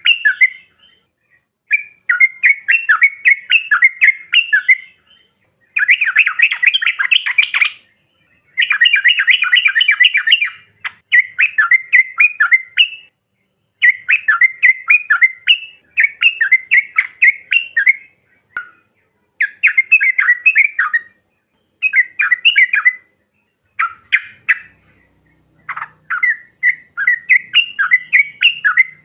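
Yellow-vented bulbul (trucuk) song: loud bursts of rapid, bubbling chattering notes. Each phrase lasts one to three seconds and is repeated again and again after short pauses.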